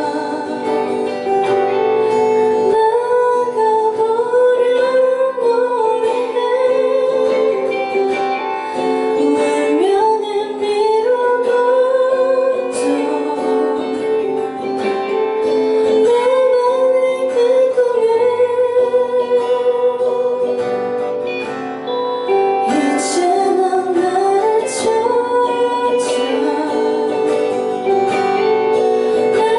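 Live indie pop song: a woman singing the melody over acoustic guitar.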